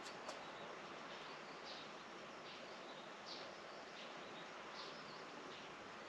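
Faint outdoor ambience: a steady hiss with short high chirps repeated about once a second, like a small bird calling.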